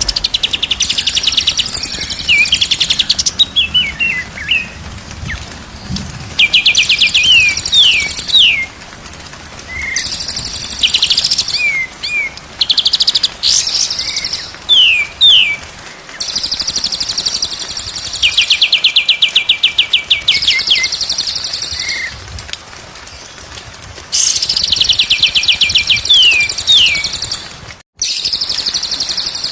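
A songbird repeating the same phrase about every five or six seconds: a fast rattling trill followed by a few quick downward-sliding whistles, with a hissy higher chatter over it. This is a looped cage-bird song recording used to teach captive songbirds.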